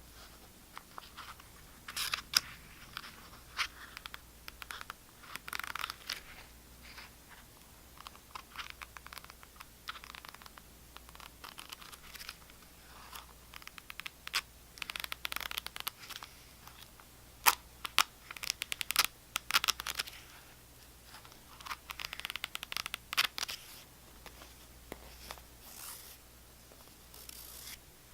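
Tapping and scratching on objects: irregular sharp taps mixed with short spells of scratching, coming in clusters every few seconds.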